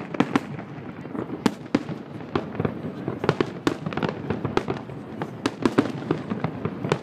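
Aerial firework shells bursting: a fast, irregular run of sharp bangs, several a second.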